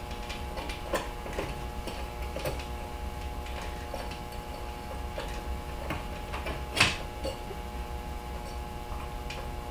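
Light, irregular clicks and taps of small metal parts being handled and fitted, with one sharper click about seven seconds in, over a steady shop hum.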